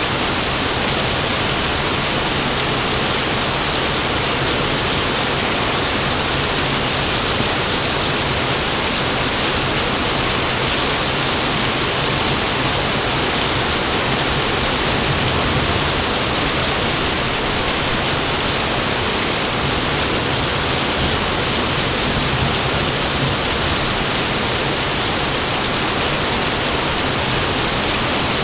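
Heavy rain falling in a steady, even hiss, with no separate thunderclaps.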